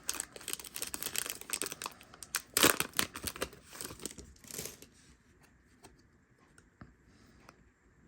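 A Yu-Gi-Oh! booster pack's foil wrapper being torn open and crinkled, loudest about two and a half seconds in; after about five seconds it drops to a few faint ticks as the cards are handled.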